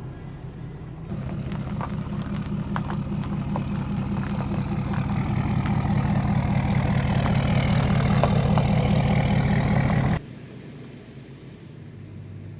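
Vehicle engine running with a steady low drone. It grows louder over several seconds, then cuts off abruptly about ten seconds in, leaving a quieter rumble.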